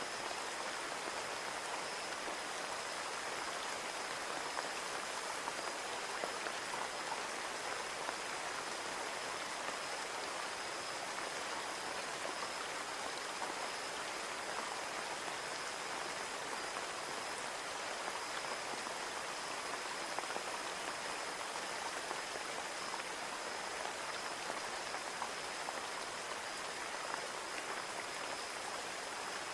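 Steady rain falling and pattering on a window pane, a continuous hiss with small drop ticks and a faint high steady whine in the background.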